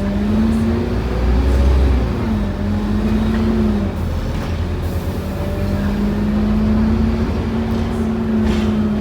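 Scania N230UD OmniCity double-decker bus running under way, heard from inside: a droning engine and drivetrain note that climbs and falls away about two seconds in, then builds again and holds steady over a low rumble.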